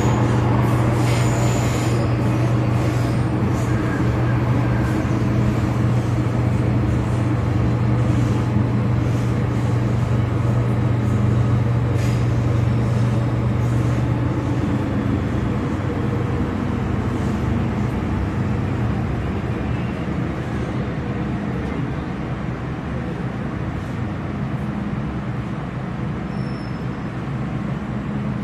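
MTR Kwun Tong Line M-Train electric metro train running, a steady low hum and rumble with brief high squeals near the start. The hum eases off gradually through the second half.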